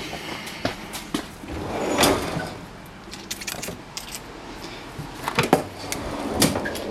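Metal tools clinking and clicking as they are handled, in scattered irregular knocks, with a louder rustling swell about two seconds in.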